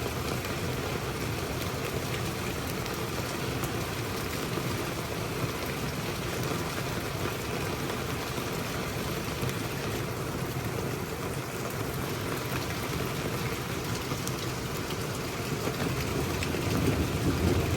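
Steady rainfall, an even hiss of rain on surfaces. A low rumble of thunder swells in near the end.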